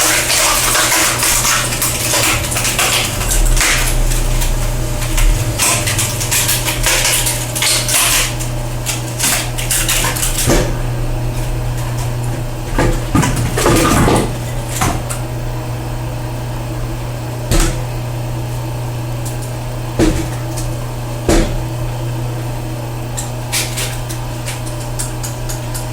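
Belt-driven screw cone log splitter, its single-phase electric motor running with a steady hum, while wood cracks and knocks as it is split. The cracking is dense for the first ten seconds or so, then comes as occasional sharp knocks.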